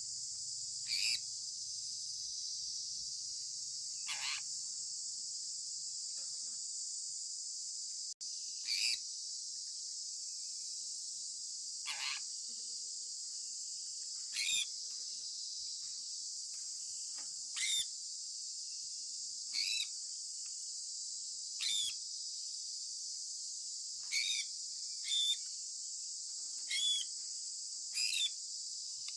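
Sun conure parrot giving short chirps that slide downward in pitch, about a dozen of them spaced two to three seconds apart, over a steady high-pitched insect chorus.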